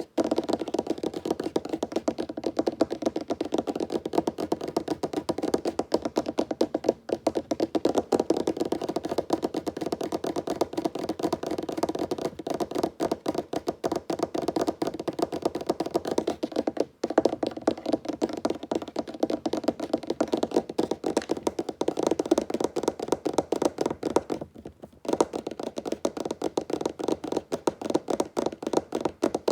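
Fingers tapping rapidly on a wooden table: a dense stream of quick, light knocks, broken by two brief pauses, one about halfway and one near the end.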